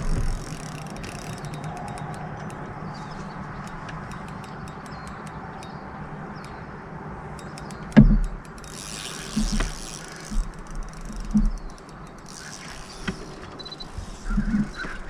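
Fishing reel cranked and clicking rapidly in spells while a hooked bass is played, over a steady low hum, with one sharp knock about eight seconds in followed by a brief hissing burst.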